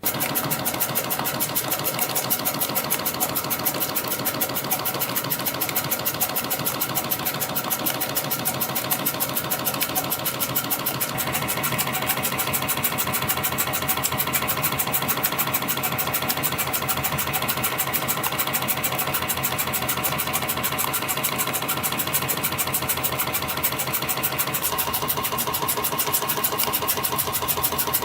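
CNC compression spring coiling machine running at production speed, forming small springs from 0.4 mm wire at about 400 pieces a minute: a fast, even mechanical clatter of many strokes a second that starts suddenly.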